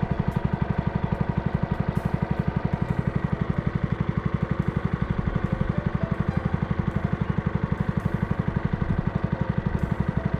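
Small boat engine running steadily at an even speed, chugging in a fast regular beat of about eight pulses a second.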